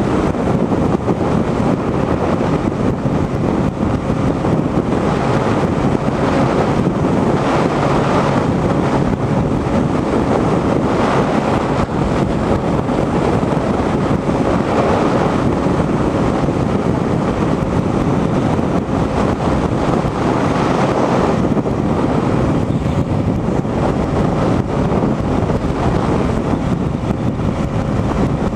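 Steady rush of wind across the microphone over the drone of a motorcycle cruising at highway speed, with a faint steady hum underneath.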